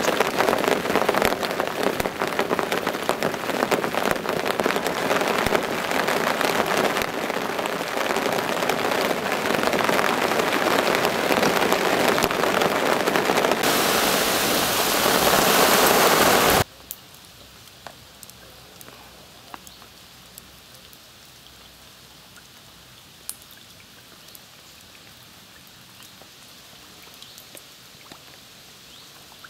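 Heavy rain pouring down onto a lake and its gravel bank: a dense, steady hiss, heaviest just before it cuts off abruptly a little over halfway through. After that, only a faint outdoor background with a few small ticks.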